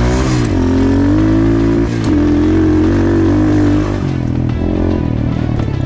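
Off-road side-by-side engine running under way. Its pitch rises near the start, holds steady, then drops about four seconds in and wavers with throttle changes.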